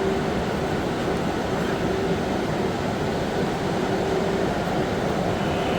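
Chinese high-speed electric train running: a steady rumble with a constant mid-pitched hum.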